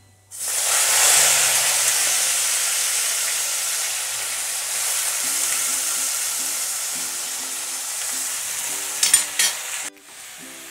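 Par-steamed sliced radish hitting hot mustard oil in a kadai: a loud sizzle bursts out suddenly and slowly eases off as the wet pieces fry. About nine seconds in a few clatters of the spatula against the pan, then the sizzle cuts off abruptly.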